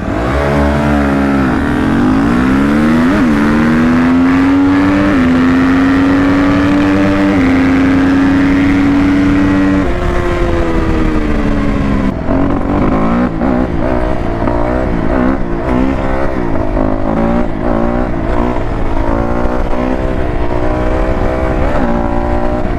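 Dirt bike engine accelerating hard, rising in pitch through several gear changes for about ten seconds. It then drops off and runs on with the throttle repeatedly opened and eased.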